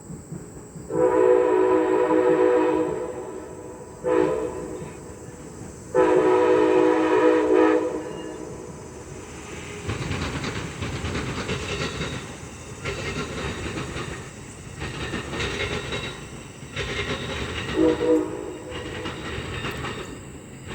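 Amtrak Siemens Charger locomotive's horn sounding a horn salute: a long blast, a short one, another long blast, and a short toot near the end. From about halfway through the train passes, rumbling, with wheels clicking over the rail joints.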